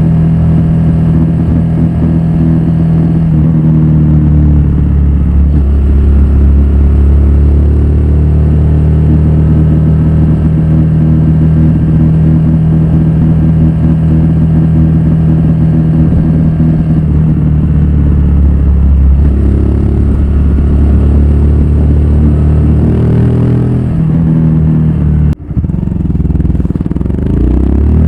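Honda Grom's single-cylinder four-stroke engine running through a Yoshimura full exhaust while riding, holding steady revs with the pitch stepping to a new level every few seconds. A brief dip in sound comes a few seconds before the end, and the note starts to rise right at the end.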